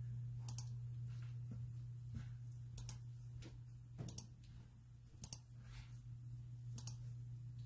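Computer mouse double-clicking, about five sharp double clicks a second or more apart, over a steady low electrical hum.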